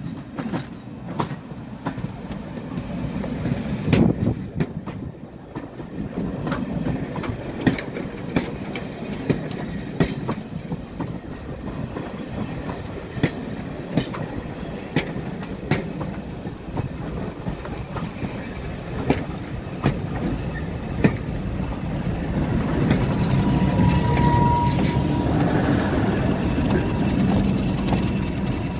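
Heritage train carriages rolling slowly past close by, their wheels clicking over the rail joints every second or so. In the last few seconds the propelling Class 31 diesel locomotive's English Electric V12 engine grows louder as the loco draws level, with a short squeal about three-quarters of the way through.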